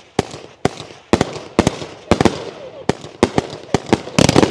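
Multi-shot firework cake (Raccoon Fireworks Pro line, red coconut tail to silver plum and red dahlia) firing a rapid volley. Sharp launch reports come about two a second, with hissing, crackling tails between them and a tight cluster of reports near the end.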